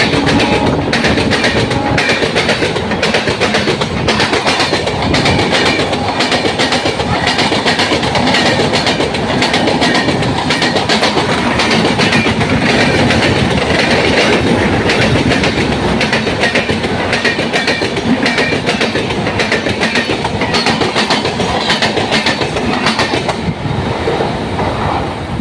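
Express passenger train rushing past at speed: a loud, steady rush of rolling wheels and air with a rapid, rhythmic clickety-clack of wheels over the rails. It eases slightly near the end.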